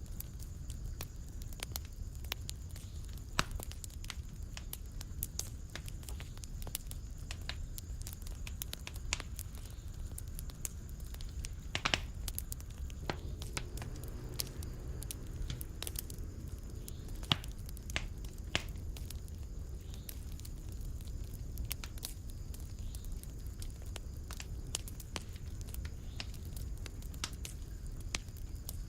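Wood fire burning in a fireplace, crackling: frequent irregular sharp pops and snaps, a few of them louder, over a steady low rumble of the flames.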